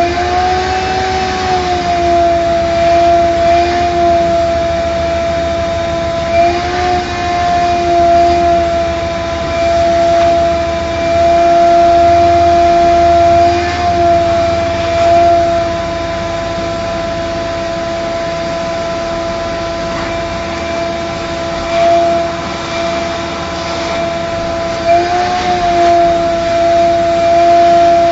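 Vacuum cleaner running with a steady whine as it vacuums a car's interior; its pitch rises briefly a few times.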